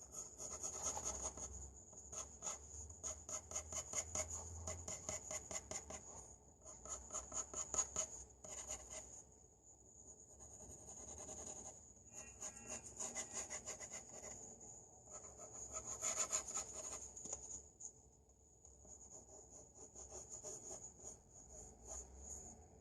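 Pencil shading on paper: rapid back-and-forth strokes in bursts of a few seconds, with short pauses between them.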